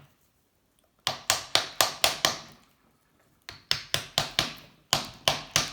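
Hammer blows on a wooden block driven against the aluminium crankcase of a Honda C70 engine, tapping the stuck case halves apart. Three runs of quick, even knocks at about four a second, with short pauses between, starting about a second in.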